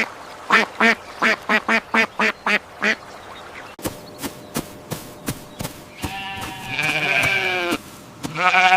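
A duck quacking, about ten short quacks in quick succession over the first three seconds. After a few faint clicks, a sheep bleats: one long wavering bleat about six seconds in, and a shorter one near the end.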